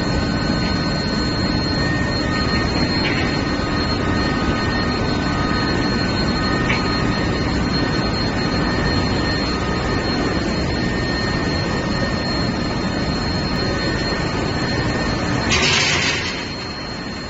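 Steel bar induction heat-treatment line running: steady, loud machinery noise with several steady high-pitched whines over it. A brief hiss comes about sixteen seconds in, and after it the noise drops a little.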